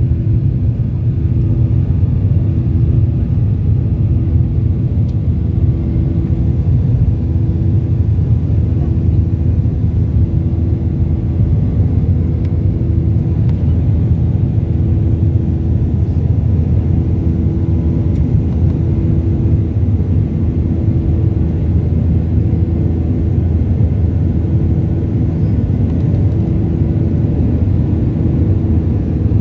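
Steady low rumble of an airliner heard from inside the passenger cabin, engine and airflow noise holding at a constant level, with a faint hum that wavers slightly over it.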